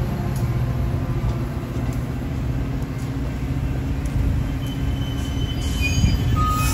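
Metra commuter train's bilevel passenger cars rolling past at close range: a steady low rumble of wheels on the rails. A few faint, brief high squeals come near the end.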